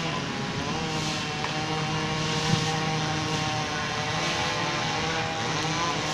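Two chainsaws running at once while cutting up a fallen tree trunk, their engine pitch wavering up and down.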